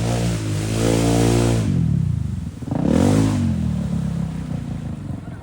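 ATV engine revving hard in surges: a long rev that climbs and then drops away about two seconds in, a second shorter rev about three seconds in, then lower, rougher running.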